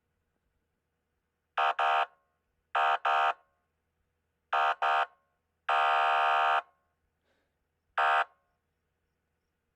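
Electronic police siren's horn tone sounding in steady-pitched blasts: three quick double blasts, then one held for about a second, then a single short blast, with silence between them.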